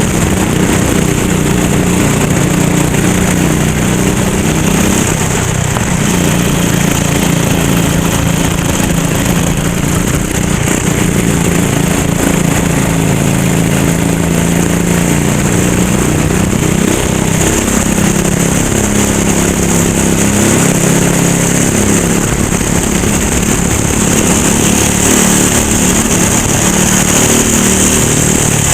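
Racing kart engine running hard, its pitch repeatedly rising and falling as the throttle opens and closes, over a steady rushing hiss.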